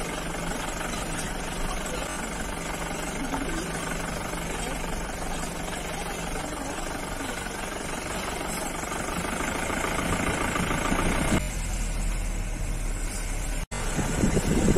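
A safari vehicle's engine running steadily, heard from on board as it travels. Near the end the sound cuts out for a moment, and wind then buffets the microphone.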